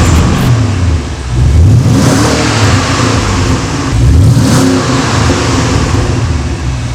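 Porsche Panamera fitted with a Mansory exhaust system being revved, the exhaust note climbing and falling back about two seconds in and again about four seconds in.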